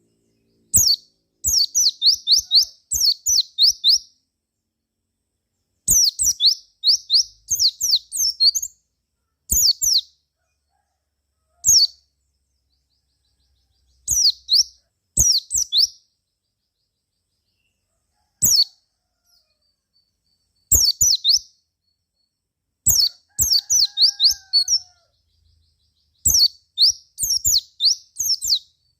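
White-eye (pleci) singing: phrases of rapid, high-pitched chirps, each note sweeping down, in bursts of one to three seconds with short silent pauses between.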